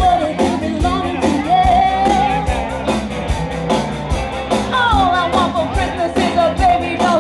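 Live rock-and-roll band playing: a voice singing a melody over electric guitar and a steady drum beat.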